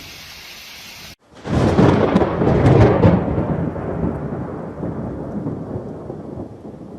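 Steady hiss of rain, then a loud clap of thunder about one and a half seconds in that rolls on as a long, fading rumble.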